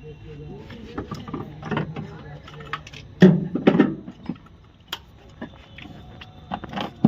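Scattered metallic clinks and knocks of tools and parts being handled during engine removal, with indistinct voices about three to four seconds in and a steady low hum underneath.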